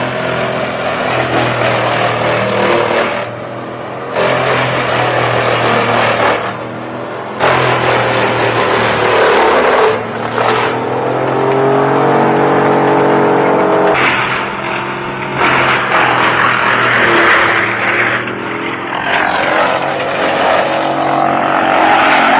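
Large forestry wood chipper running under load while logs are fed and shredded: a steady engine drone whose pitch sags and recovers with the load, under a dense grinding noise. The sound drops off briefly twice in the first eight seconds.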